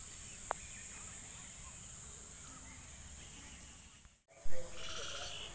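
Outdoor ambience with a steady high-pitched hiss, with a sharp click about half a second in. About four seconds in the sound drops out briefly, then comes a loud short knock.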